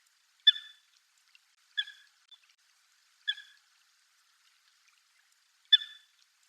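Eurasian coot giving four short, sharp calls at uneven intervals over about five seconds, the first and last the loudest.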